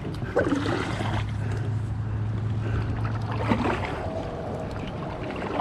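Kayak paddling: a paddle dipping and splashing with scattered short knocks, over a steady low hum that stops about two-thirds of the way through.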